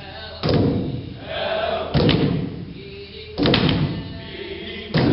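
Heavy thumps at a steady pace, about one every second and a half, with a group of voices swelling between them.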